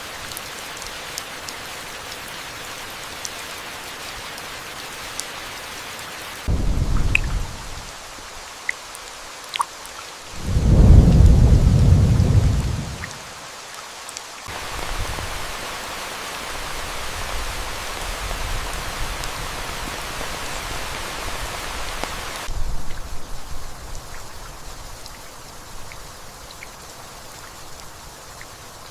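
Steady rain, with a short rumble of thunder about six seconds in and a louder, longer roll of thunder near the middle that lasts about three seconds.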